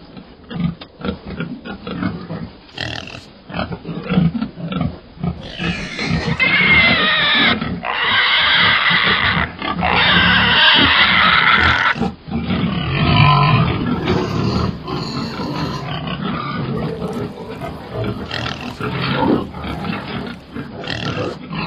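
Pigs grunting, with a run of long, loud, high-pitched squeals through the middle.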